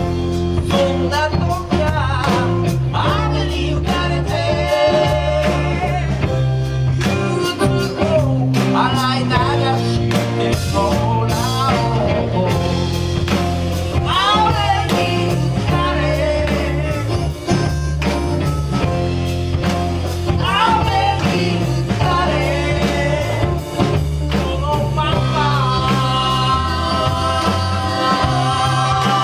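Band playing a slow bluesy soul song, with a bending lead melody over steady bass and drums and long held notes near the end.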